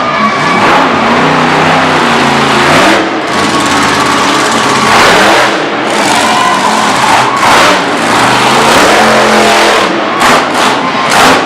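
Monster truck engine revving hard and loud, its pitch climbing and falling again and again as the throttle is worked, with a few quick throttle lifts near the end.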